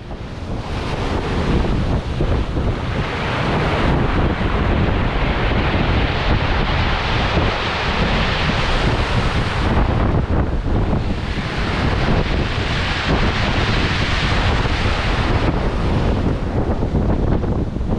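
Strong wind buffeting the microphone: a steady low rumble with a rushing hiss that swells and eases in gusts.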